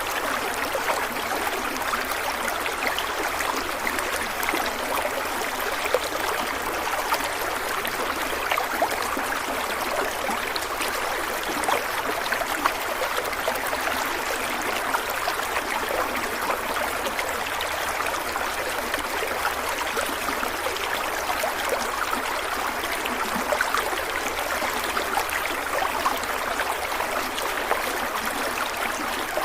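Stream water flowing and trickling steadily over stones, with small splashes and gurgles throughout.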